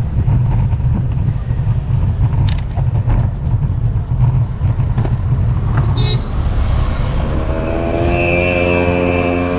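Wind buffeting the action camera's microphone, with road noise, while riding a bicycle, heard as a choppy low rumble. A short high beep comes about six seconds in. Background music with steady held notes fades in over the last two seconds.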